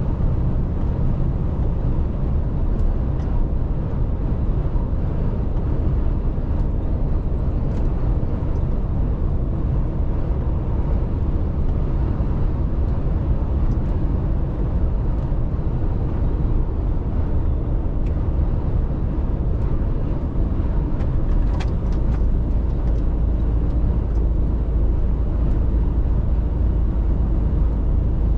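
Mercedes-Benz Actros truck driving on the road: a steady low engine and road rumble, with a few faint clicks.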